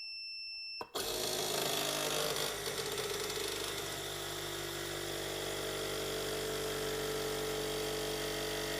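Phone-screen bubble remover machine starting up: a steady electronic beep for about a second, a click, then its compressor runs with a steady hum that settles a few seconds in, pressurising the chamber to clear bubbles from the newly laminated glass.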